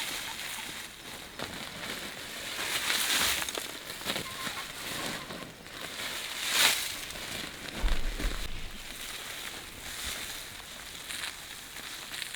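Irregular rustling and scraping from something being handled, with sharper scrapes around three, seven and eleven seconds in and a dull thud about eight seconds in.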